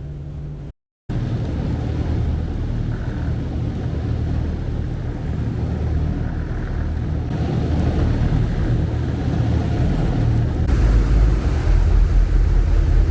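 An engine running with a steady low rumble that gets louder near the end.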